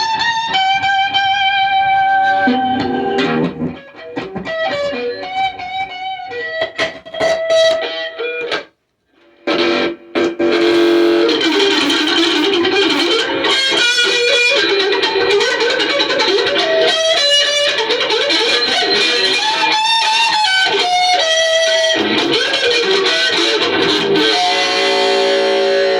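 Electric guitar playing, picked notes and sustained chords, with a brief break about nine seconds in before it comes back fuller and denser.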